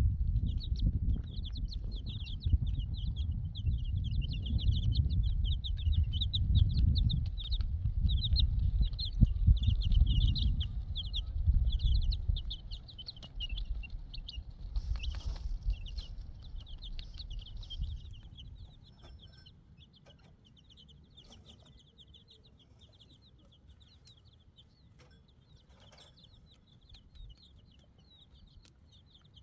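A flock of chicks peeping continuously in quick, overlapping high notes. A loud low rumble runs under them and dies away about two-thirds of the way through, leaving the peeping alone.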